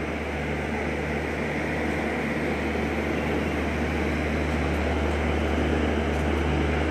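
Indian Railways electric locomotive and its passenger coaches rolling slowly past: a steady low hum with a constant rumble of wheels on rail, growing slightly louder.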